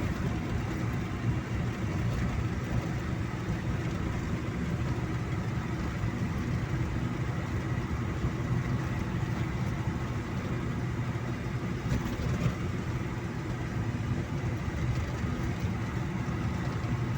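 Steady hum of a car's engine and tyre noise, heard from inside the cabin while driving.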